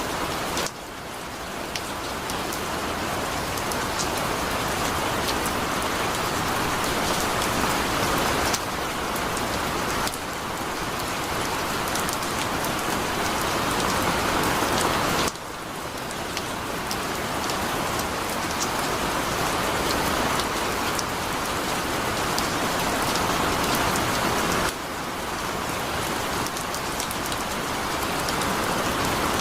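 Heavy rain falling in a dense, steady hiss of drops. The level drops suddenly several times and builds slowly back up.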